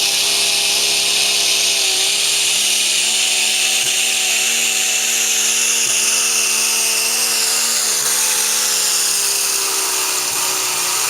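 Super stock pulling tractor's engine held at high, nearly steady revs under load, its pitch wavering and dipping slightly now and then, with a loud hissing rush over it.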